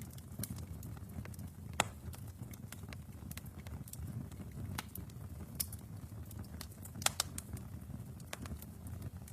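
Wood fire burning in a fireplace: a steady low rumble of flames with scattered crackles and pops, the sharpest about two seconds in and about seven seconds in.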